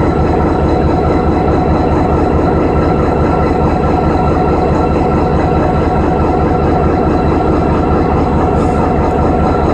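Train running with a loud, steady sound: an unbroken rumble with a few steady tones held through it.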